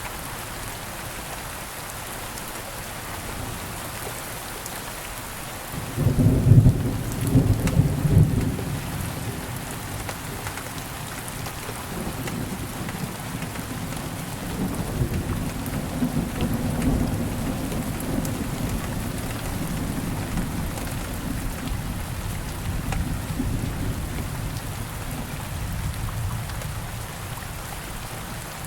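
Steady rain falling, with a sudden loud crack of thunder about six seconds in that rolls on as a low rumble, swelling and easing for the next twenty seconds before dying away near the end.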